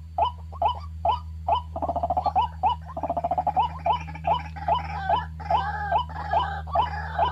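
White-breasted waterhen calls: a steady run of short, loud call notes about three a second, broken by a fast stuttering rattle about two and three seconds in, with fuller, layered calls after that.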